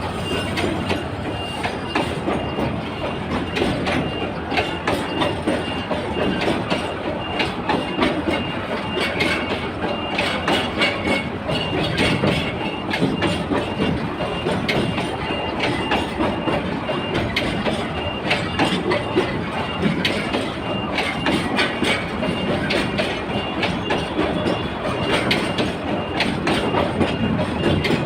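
Bangladesh Railway goods train running on the track, its wheels clattering steadily over the rail joints.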